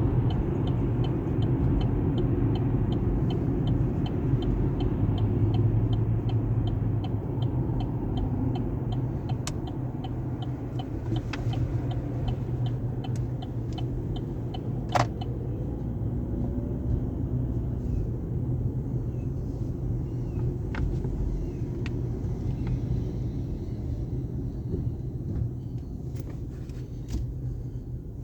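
Sonny's car wash tunnel equipment running, a steady low rumble and hum. A fast, regular ticking runs for about the first ten seconds, and there is a single sharp click about halfway through.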